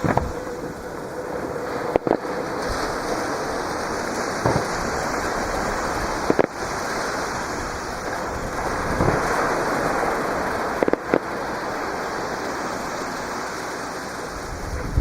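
Fireworks bursting in sharp bangs at irregular intervals, a quick pair about eleven seconds in, over the steady wash of surf breaking on the shore.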